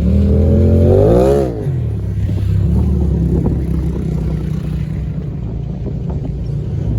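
Pickup truck engine running, revved once about a second in, its pitch rising and falling back, then settling to a steady idle.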